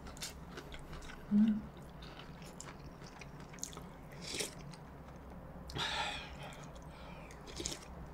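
Close-miked chewing and biting of chunks of pork from kimchi stew, with many small wet clicks and slurps. A brief low hum comes about a second and a half in, and a louder breathy burst about six seconds in.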